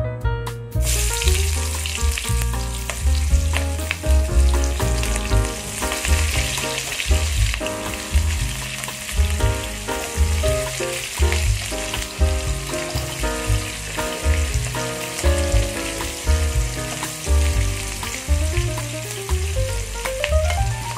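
Diced onion sizzling in hot oil in a wok, the frying hiss starting suddenly about a second in and running steadily. Background music with a bass line plays throughout.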